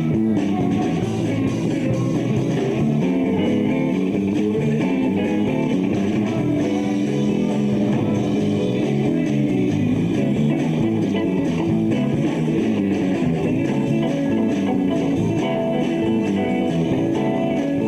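Rock band playing live, with guitars, bass guitar and drums.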